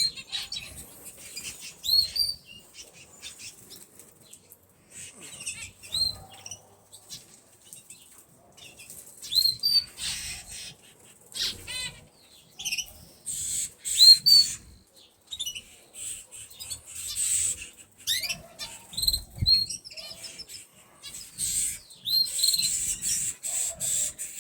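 Canaries in a flight cage fluttering their wings, with repeated short rising chirps and one rapid trill about halfway through.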